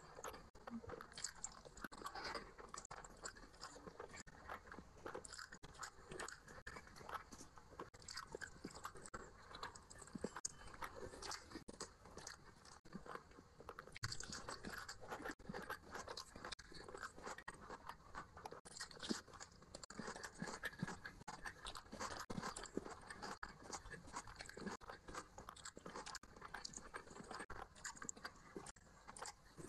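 A person chewing and crunching a mouthful of rice and curry eaten by hand, with many short crisp bites in quick succession.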